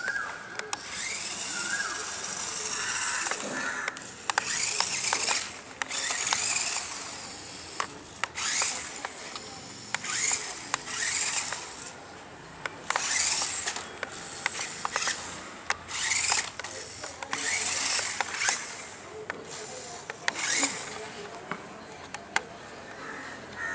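Small electric motor and gearbox of a toy RC rock crawler whirring in repeated short bursts as the throttle is worked on and off, some bursts rising in pitch, with scattered clicks and knocks.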